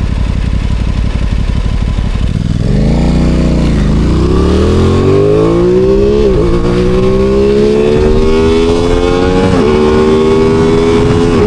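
Aprilia Tuono 660's parallel-twin engine pulling away and accelerating, its note climbing through the gears with a quick drop at each of about three upshifts.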